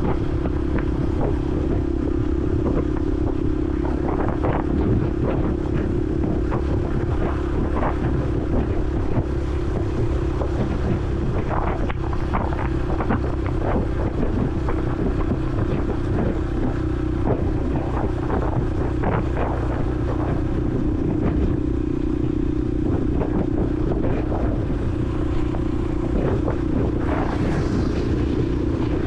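Honda CRF150L's single-cylinder four-stroke engine running at a steady, even pace while riding, with wind buffeting the helmet-mounted microphone.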